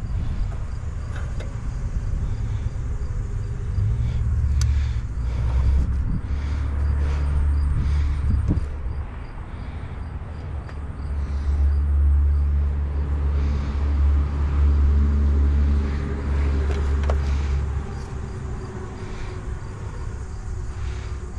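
A motor vehicle's low rumble, swelling and easing several times.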